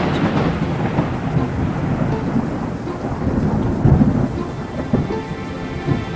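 Thunderstorm: steady rain with rolling thunder, a heavier rumble about four seconds in.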